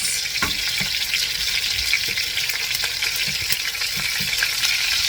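Chicken breasts searing in a frying pan: a steady sizzle of hot fat, with a few faint knocks.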